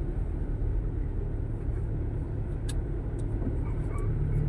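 Steady low rumble of motor-vehicle engine and road noise, with a single sharp click about two and a half seconds in.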